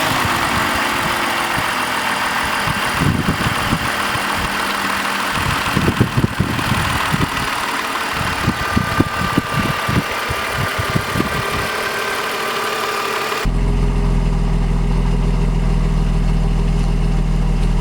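BMW E39 520i's M54 2.2-litre inline-six petrol engine idling just after start-up, a steady mechanical whir and hiss with the bonnet up. About thirteen seconds in the sound switches abruptly to a deeper, duller drone with the high hiss gone.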